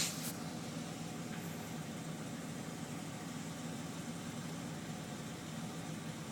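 The 1981 Buick Electra 225's carbureted 4.1-litre V6 idling steadily, warmed up after a cold start.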